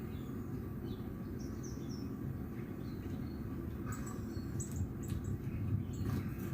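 Small birds chirping in short, scattered calls over a steady low background rumble, the calls coming thicker about four to six seconds in.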